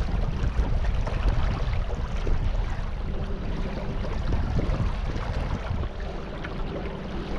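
Steady rumble of a boat under way on a river, wind buffeting the microphone over the sound of moving water.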